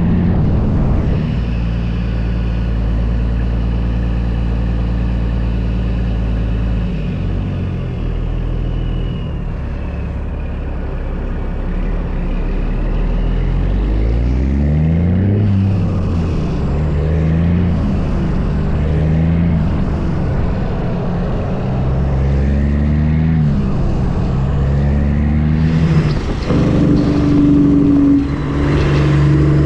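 Heavy diesel truck engine pulling through the gears: the engine note climbs and drops back at each upshift, several times in a row in the middle stretch, after a steady run at the start.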